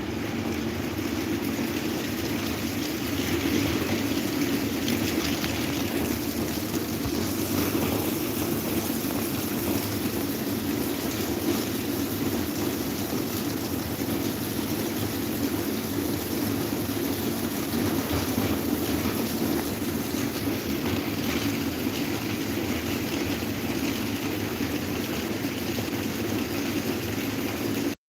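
Electric table fan running steadily: a constant whoosh of moving air with a low hum.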